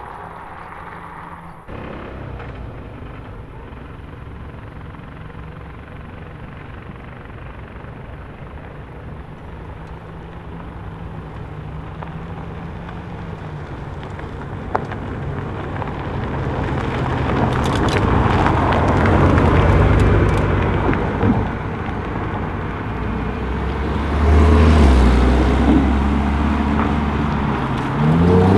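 Car engine running at low revs, growing gradually louder, with a deep steady engine note near the end.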